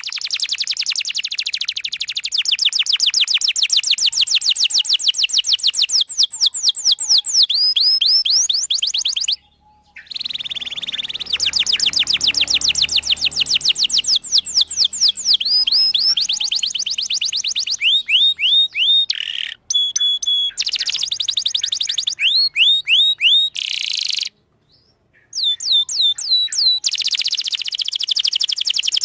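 Domestic canary singing a long song of fast, repeated trilled chirps, with rolls and a few harsher notes. It breaks off briefly twice.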